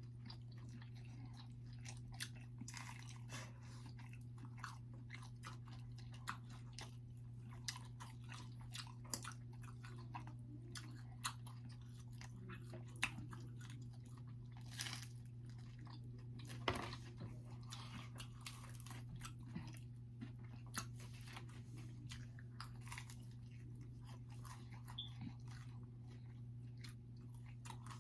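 Pizza being chewed and bitten into close to the microphone: irregular crunching and wet mouth clicks, the loudest bite about 17 seconds in, over a steady low hum.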